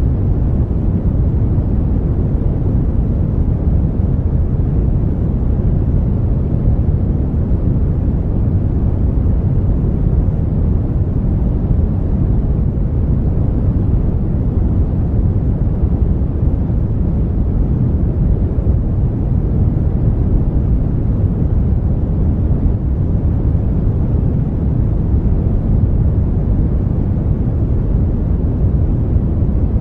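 Steady synthetic brown noise: an even, unchanging rushing hiss weighted heavily toward the low end, like a deep rumble with little treble.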